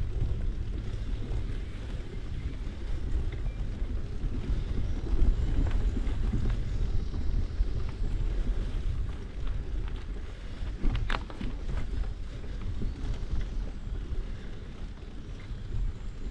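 Wind buffeting the microphone of a camera on a moving bicycle, a steady low rumble. One sharp click comes about two-thirds of the way through.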